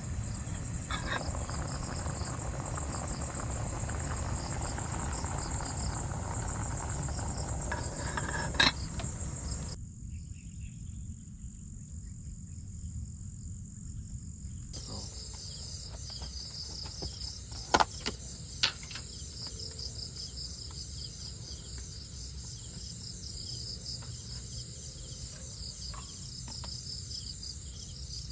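Chorus of insects, crickets or similar, trilling steadily in high pulsing tones. For the first ten seconds a louder rushing noise lies under it and cuts off abruptly. A few sharp clicks come a little past the middle.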